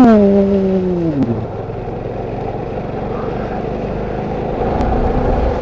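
Motorcycle running on the move, with steady wind and road noise. A person's drawn-out voiced sound trails off in the first second or so.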